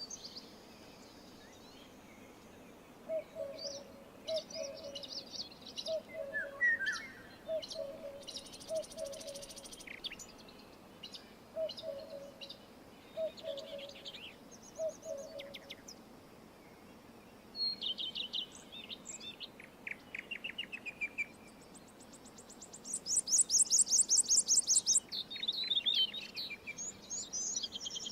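Several wild birds singing and calling, with scattered high chirps and short trills. A low double note repeats about once a second through the first half, and a loud, fast, high trill comes about two-thirds of the way through.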